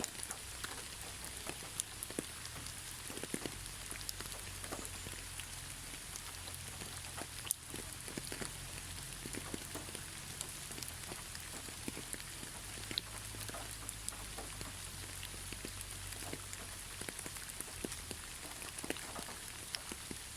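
Steady gentle rain with no thunder: an even hiss with many separate drops tapping close by, over a low rumble.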